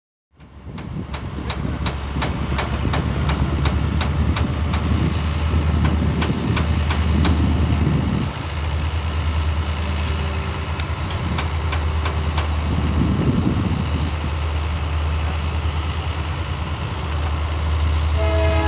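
Freight train running through the junction: a steady low diesel rumble with the wheels banging and clattering irregularly over the rough crossing track. Near the end a multi-note train horn starts sounding.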